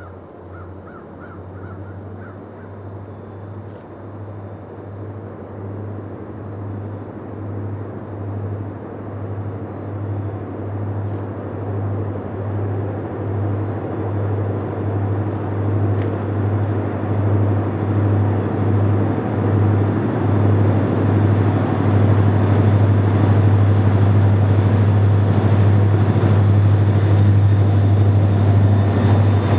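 Approaching freight train led by EMD diesel locomotives, the engines' low rumble throbbing and growing steadily louder as it nears.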